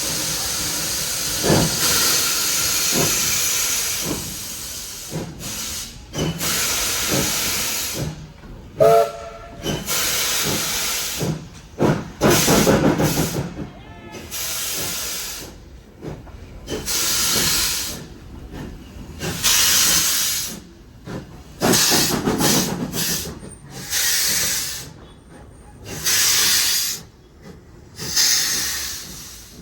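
Steam locomotive working slowly, with loud hissing bursts of steam about every one to two seconds.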